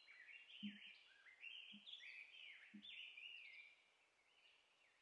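Faint birdsong: a run of short, sliding chirped phrases that stops about three-quarters of the way through. Three soft low thuds come about a second apart near the start.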